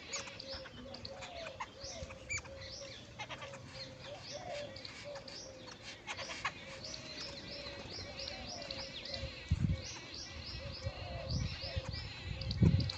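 A flock of jungle babblers giving harsh, nasal chattering calls, with a fast run of short repeated high notes in the second half. A couple of low thuds break in, the loudest about nine and a half seconds in and near the end.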